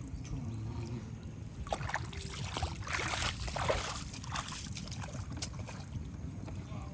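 Water splashing and sloshing in short, irregular bursts over a steady low rumble.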